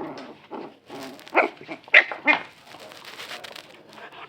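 Dog barking in short sharp barks, the three loudest close together in the middle.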